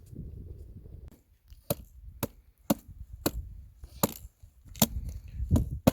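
Footsteps crunching and cracking on frozen, icy ground: sharp crunches at a walking pace of about two a second, starting about a second and a half in after a low rumble.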